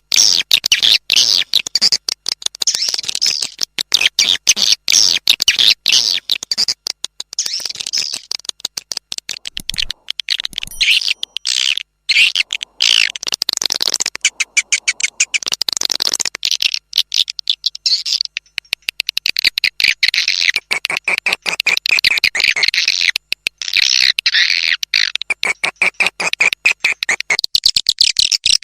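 Swiftlet calls: a dense, continuous twittering of rapid high chirps. This is a swiftlet-house lure call of the kind played to attract swiftlets.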